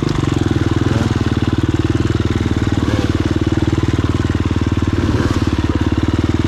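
Dirt-bike engine running at a steady speed, its firing pulses even and its pitch unchanging.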